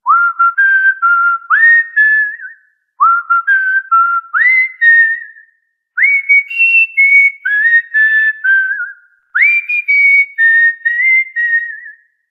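A clear whistled tune of swooping-up notes that step and hold, played as one short phrase four times with brief gaps between.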